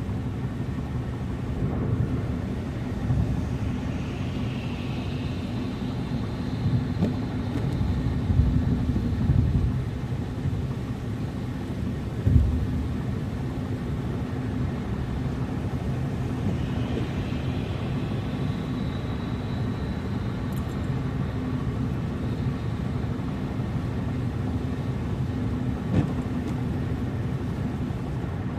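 A car driving: a steady low rumble of engine and tyres, with a few heavier thumps in the first half, the loudest about twelve seconds in.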